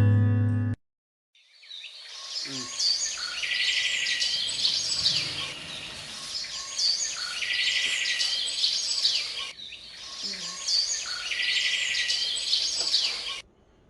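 Acoustic guitar music cuts off a moment in, then an outdoor chorus of birds fades in: many chirps and calls, with a trilled phrase recurring about every four seconds, over a soft background hiss.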